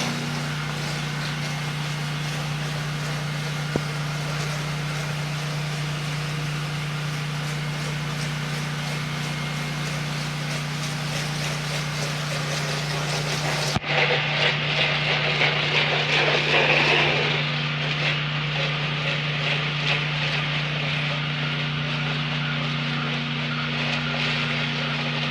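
Honda-engined 8 gpm gas pressure washer running steadily under the hiss of spraying water. About 14 seconds in the sound changes abruptly, and the spray hiss is louder for a few seconds after.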